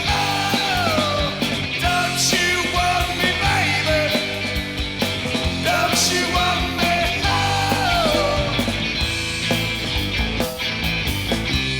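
Live rock band playing loudly with drums, cymbal crashes and a lead line that slides down in pitch twice, with no vocals.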